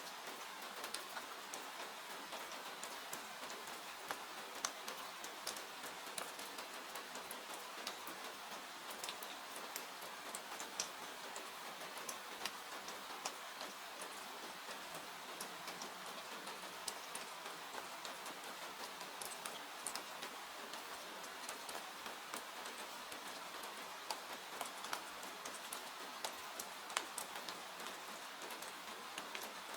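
Steady rain hiss with scattered, irregular sharp pops and crackles from a wood fire in a fireplace.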